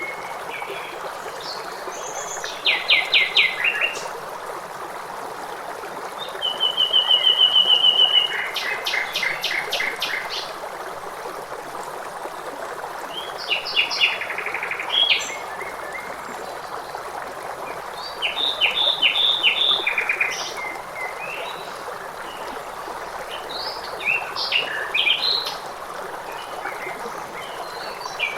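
Songbirds singing in short, fast trilled phrases and chirps every few seconds over the steady rush of a stream.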